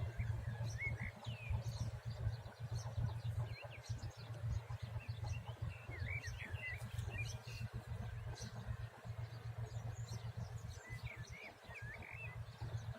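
Small birds chirping in three short bursts, near the start, around the middle and near the end, over a steady, fluttering low rumble.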